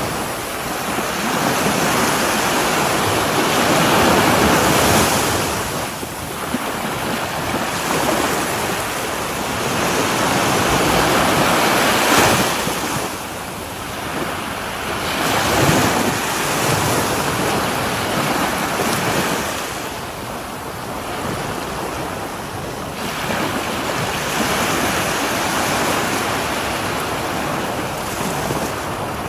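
Ocean waves breaking and washing on a shore, the surf swelling and easing every few seconds, with wind buffeting the microphone.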